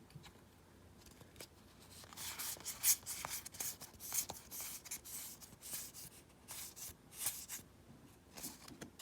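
Magic: The Gathering trading cards being handled, sliding and rubbing against each other in short, faint brushing strokes with small clicks.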